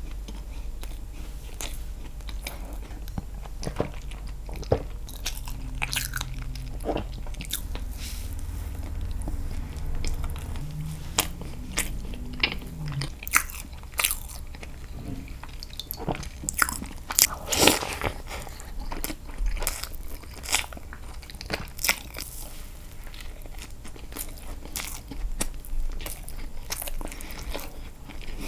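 Close-miked chewing and biting of castella sponge cake dipped in milk: irregular mouth clicks and smacks.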